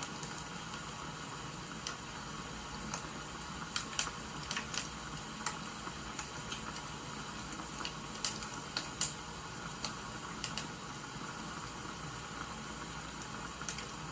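Wood fire crackling: irregular sharp pops and snaps over a steady hiss that sounds like rain.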